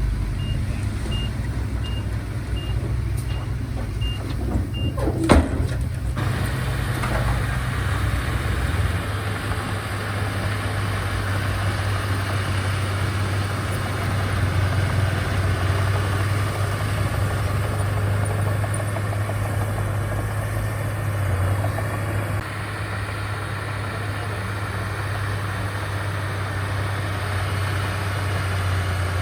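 Heavy diesel earthmoving machinery running steadily, with a reversing alarm beeping about twice a second for the first five seconds. A single sharp knock comes about five seconds in, then the machinery keeps working with a busier rattle.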